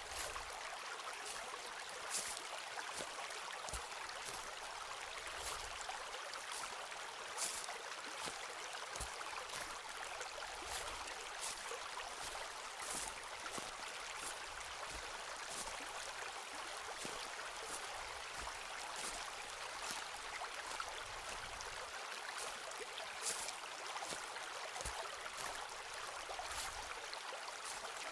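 Footsteps on a forest path: short crunches roughly every one to two seconds, some with a low thud, over the steady rush of a stream.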